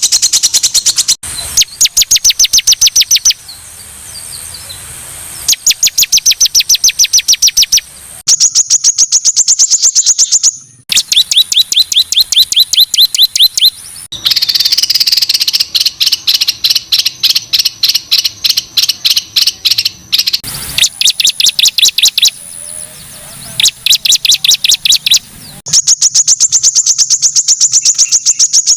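Songbird singing loud, high-pitched rapid-fire phrases, each a string of sharp repeated notes at about eight a second and lasting two or three seconds, with short breaks between. These are harsh "tembakan" phrases of the kind used as masteran to train competition songbirds.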